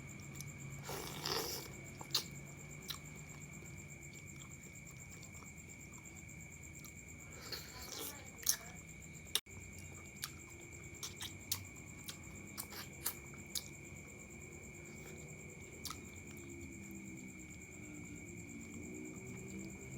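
Close-up eating sounds of chicken noodles being chewed, with scattered sharp mouth clicks and smacks and a couple of short wet bursts, over a faint steady high-pitched tone.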